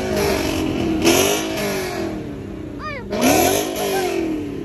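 Car engines revving, their pitch rising and falling again and again, with louder surges about one second and three seconds in.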